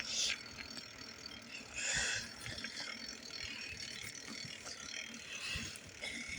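Bicycle rear freewheel ticking rapidly as the bike coasts, with two brief hissing rushes, one at the start and one about two seconds in.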